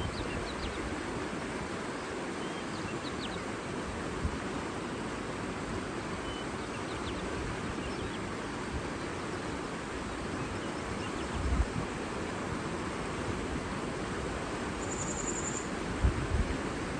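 Steady rushing of water under wind, with low gusts of wind on the microphone, a few faint short bird chirps in the first half and one brief high-pitched call near the end.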